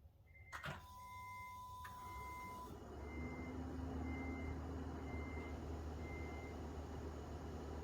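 A 2016 Honda Odyssey's warning chime beeps about once a second, with a sharp click about half a second in. The van's 3.5-litre V6 then starts and settles into a steady low idle hum.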